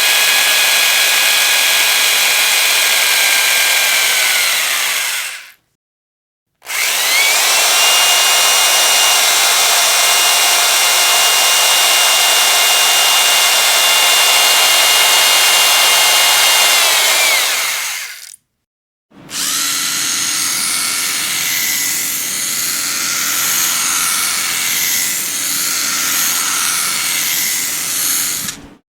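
Electric power drill run three times in bursts of about five, eleven and nine seconds, with short gaps between. Each run has a motor whine that climbs as it spins up and sags as it winds down. The last run is rougher and more uneven.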